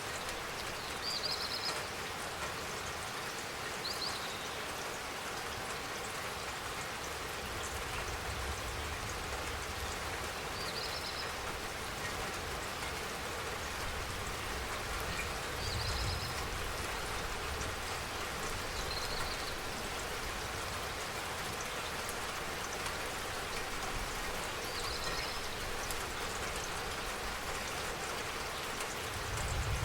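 Steady spring rain falling, an even dense patter without pauses. A faint short high chirp recurs about every three seconds over it.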